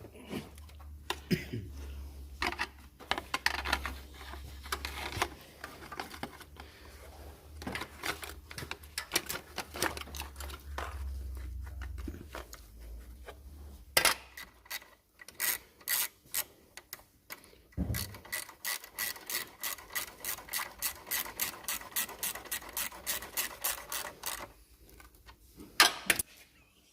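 Metal clinks, scrapes and knocks from hand tools and an exhaust heat shield being handled and fitted, with a low hum under the first half. In the second half comes a long run of rapid, evenly spaced clicking.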